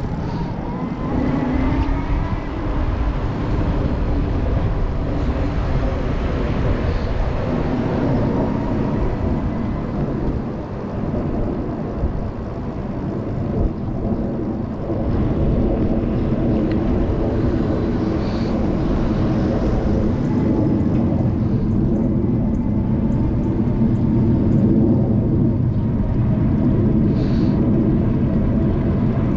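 Riding on a Super73 S2 electric bike: wind rumbling on the microphone over a steady hum from the motor and fat tyres on the road. The hum rises in pitch over the first couple of seconds as the bike pulls away from a stop.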